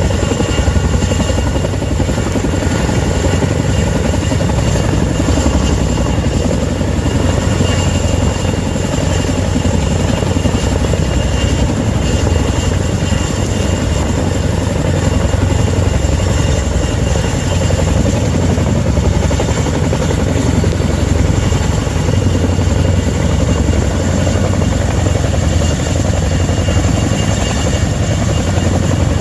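Helicopter running steadily and loud: a fast rotor throb with a high steady whine over it.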